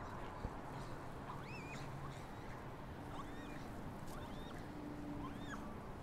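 Short high chirps of small birds, coming every second or so, over a steady low background rumble, with one sharp click about half a second in.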